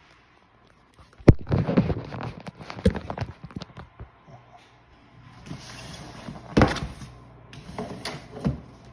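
Handling noise from unboxing audio equipment: a sharp click, then a run of irregular knocks and rustles, and later two single knocks over a steady low hum.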